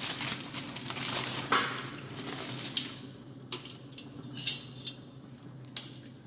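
Kitchen utensils working against dishes: a stretch of scraping for about three seconds, then several separate clinks.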